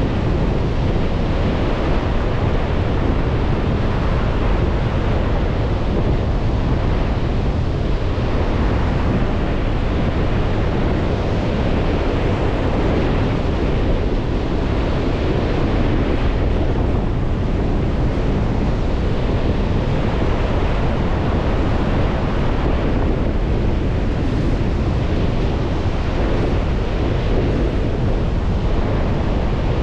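Lake Michigan waves washing onto the shore in a strong wind, with wind buffeting the microphone as a steady low rumble under the surf.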